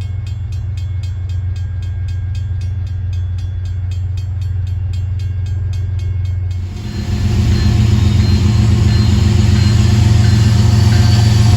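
Freight train with diesel locomotives running, a deep steady engine rumble that grows gradually louder. About seven seconds in it turns louder and fuller as the train rolls by, with faint steady squealing tones above the rumble.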